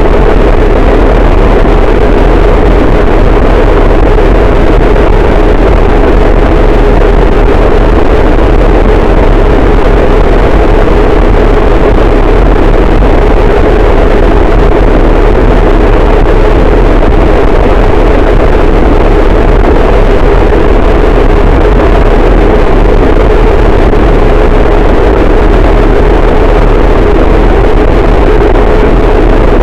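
Harsh noise wall: a very loud, dense, unchanging wall of distorted static, with heavy bass and a steady droning band in the low middle running through it.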